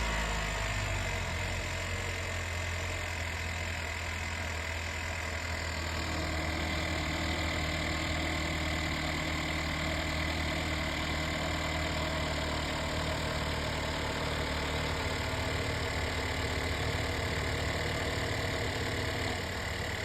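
2017 Chevy Cruze's 1.4-litre turbocharged four-cylinder engine idling steadily.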